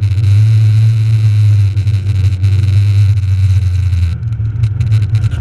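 Rally car engine running under load, heard from inside the cabin as it drives on snow, with a steady low drone and road noise; the engine note eases off briefly twice, about two seconds in and again near the four-second mark.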